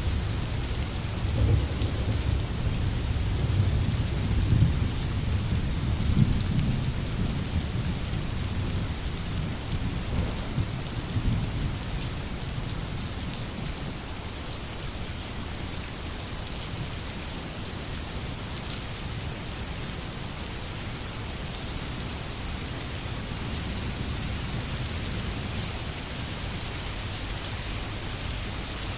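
Steady rain falling in a forest, with a low rolling rumble of thunder through the first half that fades away.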